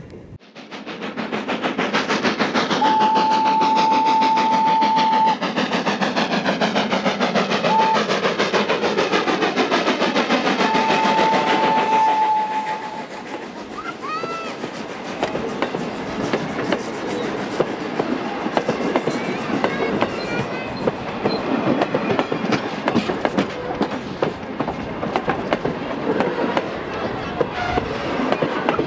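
Thomas the Tank Engine replica locomotive passing with its train, its whistle blowing one steady note in two long blasts with a short toot between. After about thirteen seconds it gives way to the quieter clickety-clack of the wooden-bodied passenger coaches rolling over the rail joints.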